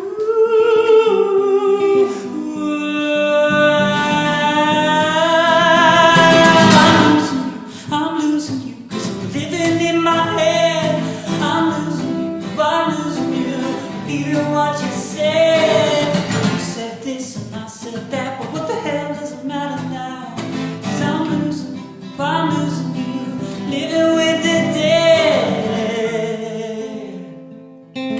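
Acoustic song: wordless singing, long "ooh" notes with vibrato, over strummed acoustic guitar. One long wavering held note comes about three to seven seconds in and another near the end, as the voice falls away before the guitar.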